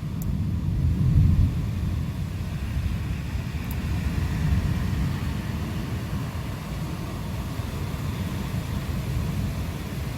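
Thunder rolling in a low, drawn-out rumble over steady rain hiss, swelling in the first second or so and then easing off.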